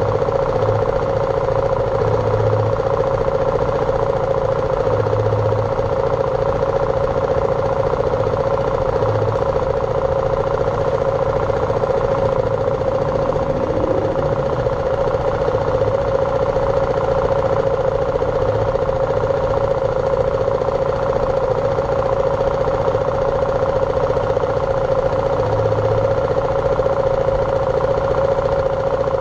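BMW G310R's single-cylinder engine running at a steady pace while riding, with no clear revving up or down.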